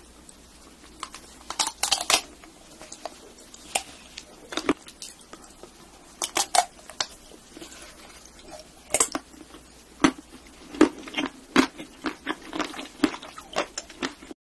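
Close-miked bites into a chocolate-coated ice cream bar: the hard chocolate shell cracking and crunching as it is chewed, as sharp crackles in irregular clusters.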